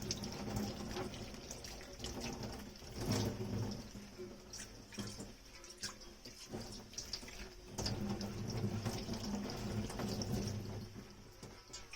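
Dishes being washed in a kitchen sink: water running from the tap, with dishes and utensils clinking and knocking now and then.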